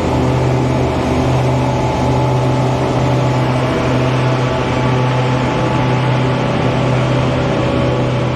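A motor engine running steadily at a constant speed, with a steady hum.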